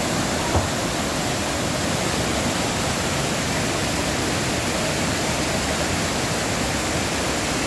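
Waterfall pouring: a steady, even rush of falling water, with a brief knock about half a second in.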